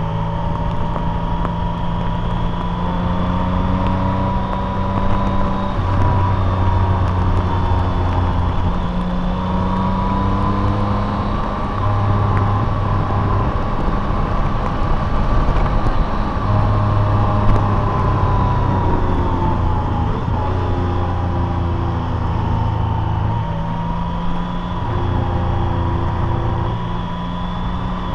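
Car engine and road noise while driving: a steady drone whose pitch drifts slowly up and down as engine speed changes.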